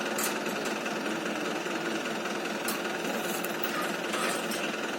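Tractor diesel engine running steadily under the load of the bore well lifting machine, with a few faint sharp clicks.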